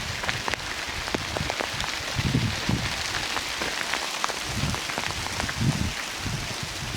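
Steady rain falling in a redwood forest: an even hiss of rainfall with many sharp individual drips landing close by. Soft low thuds come at an irregular pace underneath.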